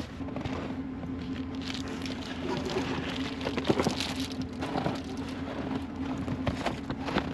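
A small electric air pump running with a steady hum that switches on at the start, while clicks and rustles from handling the inflatable mattress sound over it.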